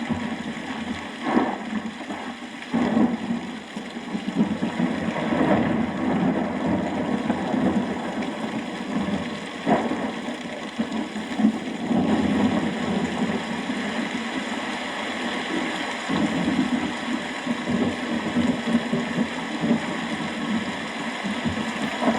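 Steady rain falling, with close raindrops landing as sharp taps now and then: a few in the first three seconds and one about ten seconds in.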